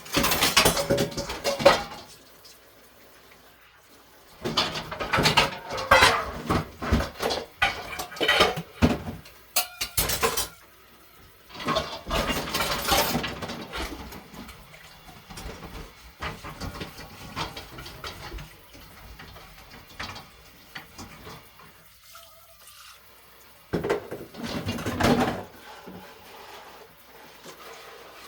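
Washing up at a kitchen sink: dishes and cutlery clattering with running tap water, in several bursts separated by quieter pauses.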